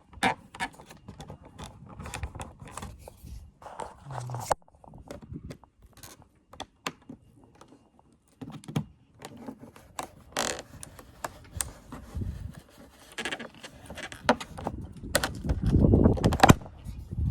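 Scattered plastic clicks, scrapes and knocks as a truck's door light is worked and pried out of the plastic door panel, with a louder rumbling handling noise near the end.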